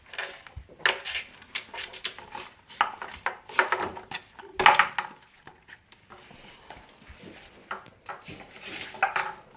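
Cockatoo knocking and tossing nuts and small hard objects around a wooden table: irregular clattering and knocks, some louder than others.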